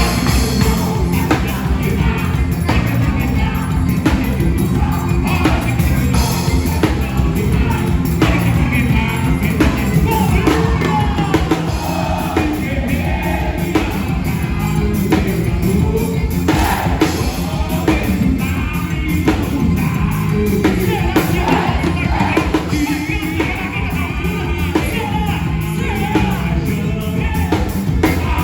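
A band playing a song with a singing voice, drum kit and other instruments.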